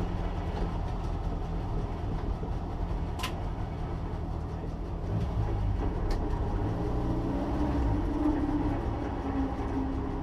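Opel Manta's 2-litre 16-valve engine running as a low, steady rumble that grows a little louder about halfway through. Two short sharp clicks sound about three and six seconds in.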